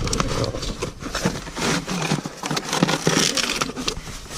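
A sheet of cardboard scraping and crackling in a run of irregular rubs as it is forced into a tight space.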